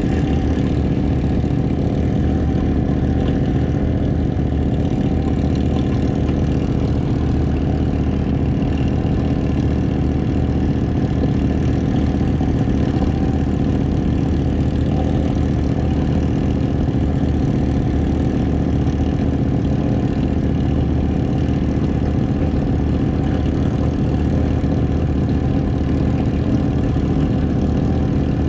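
Ducati 1199 S Panigale's Superquadro L-twin engine running steadily at an unchanging pitch, with no revving.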